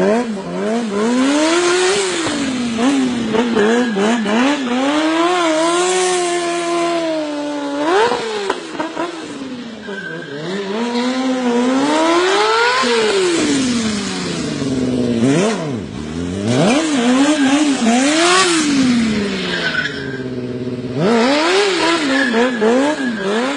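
Motorcycle engine revving up and down again and again, its pitch climbing and falling every second or two, with a constant hiss of tyre and road noise behind it.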